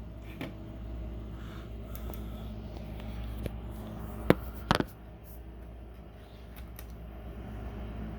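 Small plastic Lego pieces being handled, giving a few sharp clicks, the loudest two a little past the middle, over a steady low hum.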